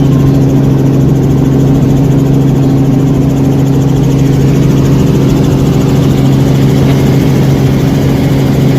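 An engine running steadily at one pitch: a loud, even, low hum.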